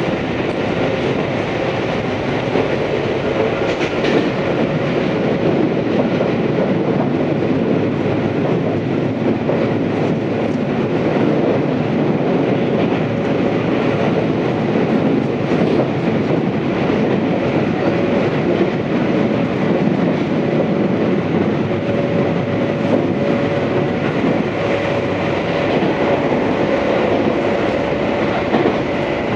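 Tobu 634 series electric train running between stations, heard from inside the car: a steady rumble of wheels on rail with a few clicks over rail joints, and a faint steady whine that grows a little stronger in the second half.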